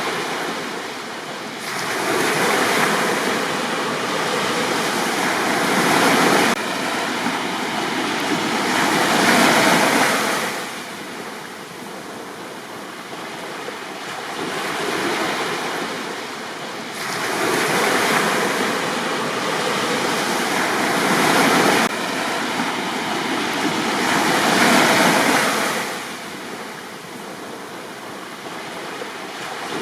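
Sea waves breaking on a sandy beach and washing up the shore, the surf swelling to a peak and falling back every several seconds, with quieter lulls between the bigger waves.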